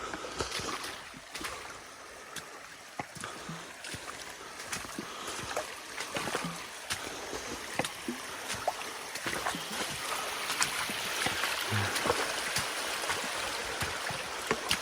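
Shallow creek water running over rocks, growing louder after about eight seconds, with scattered knocks and splashes from footsteps in the stream bed.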